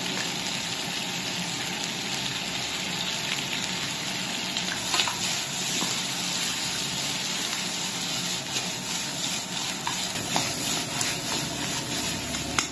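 Chicken pieces sizzling steadily in a hot non-stick pan as braised-chicken seasoning sauce is stirred through them with chopsticks, with a few light clicks and scrapes of the chopsticks in the pan.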